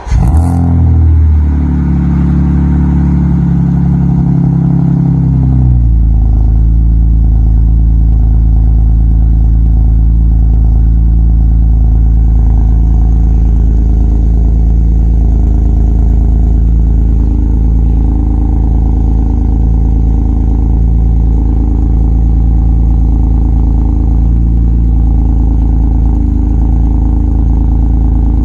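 1997 BMW M3's inline-six, with a Borla cat-back exhaust and catless mid-pipe, cold-starting and idling loudly through the exhaust. It fires at the very start and holds a higher cold-start idle for about five seconds, then drops to a lower steady idle.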